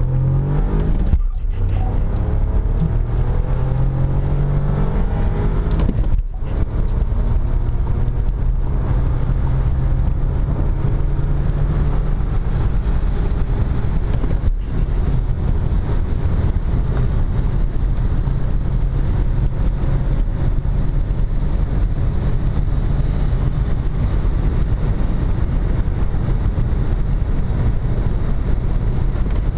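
VW Golf 1.0 TSI's three-cylinder turbo petrol engine pulling hard under full acceleration, its pitch climbing in each gear. There are short breaks for gear changes about a second in, about six seconds in and near the halfway point, and after the last one the pitch climbs only slowly, with steady road and wind noise.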